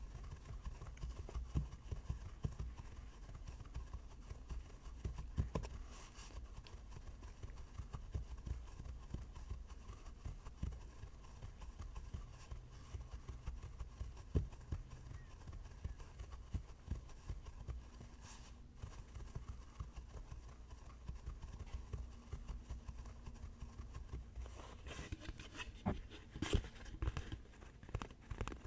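Fast, light tapping on an object, many quick taps in irregular runs, with a few sharper, louder taps and a busier flurry near the end.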